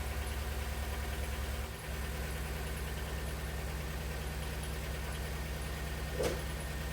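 2002 Honda Civic four-cylinder engine idling, not entirely smooth but steady, after new spark plugs and a valve cover gasket set cured an oil-fouled misfire. The level dips briefly about two seconds in, and a single short knock sounds near the end.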